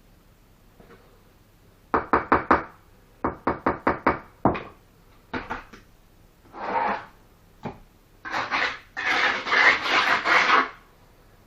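Brick-laying sounds: two quick runs of sharp knocks, about four and then about six, as bricks are tapped down into their mortar bed. Then a trowel scrapes mortar in longer rasping strokes, the longest near the end.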